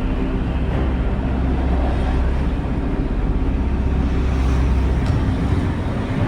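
A tugboat's diesel engines running steadily under load, a deep continuous drone.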